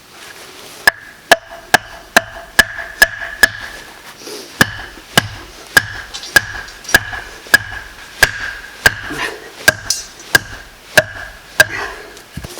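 Repeated hammer blows, about twenty in all, roughly two a second, with a short pause about four seconds in. Each blow leaves a high ringing tone that carries on between strikes.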